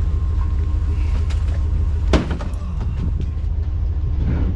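Engine running steadily at a low idle, with a sharp clank about two seconds in and a few lighter knocks.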